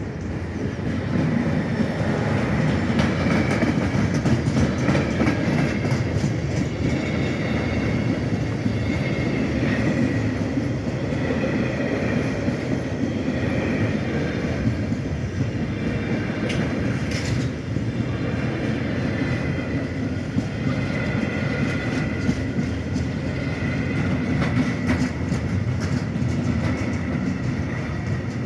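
Freight train rolling past at close range: a steady rumble of the wagons with the clatter of wheels over the rail joints, growing louder about a second in.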